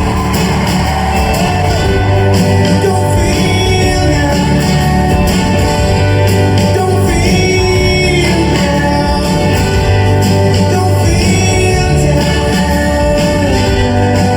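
Rock band playing live, with a singer holding long notes over guitars, bass and drums.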